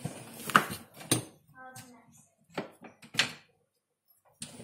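Dishware and dishwasher racks being handled: a series of sharp knocks and clacks, about five over four seconds, with a short ringing after one of them.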